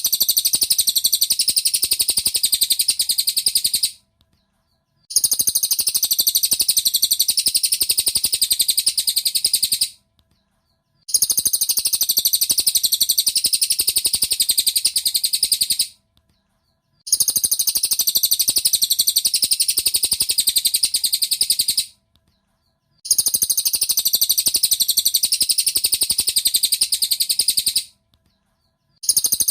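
Cililin bird song played as a looped masteran recording: a very fast, high-pitched trill in bursts of about five to six seconds, each broken off by about a second's pause and repeated identically.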